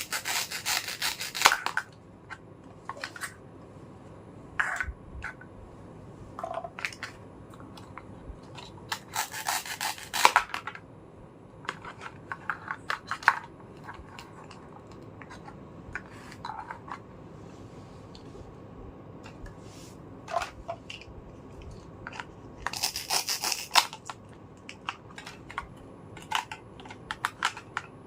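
Small plastic toy kitchen pieces being handled: scattered light clicks and taps, with three longer bursts of rubbing or rustling, one near the start, one around a third of the way in and one near the end.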